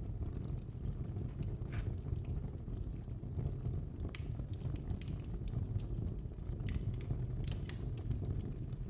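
Wood fire burning in a fireplace: a steady low rush of flame with irregular crackles and sharp pops, a few of them louder.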